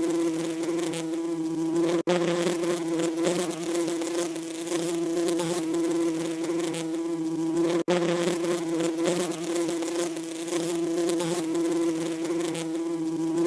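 Bees buzzing steadily in one continuous low drone with a busy, fizzy edge. The buzz cuts out completely for an instant twice, about two seconds in and again near eight seconds.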